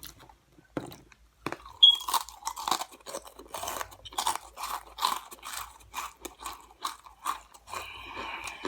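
Close-miked crunchy chewing of Flamin' Hot Cheetos: a sharp bite about two seconds in, then steady crunching chews, about two a second.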